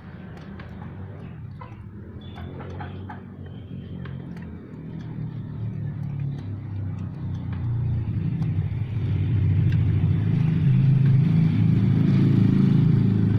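A motor vehicle's engine on a road, getting steadily louder as it approaches and loudest in the last few seconds.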